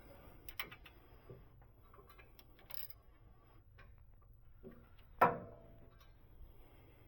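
Light clicks and clinks of hand tools and metal parts during transmission and torque-converter bolting, with one loud metallic clank about five seconds in that rings on briefly.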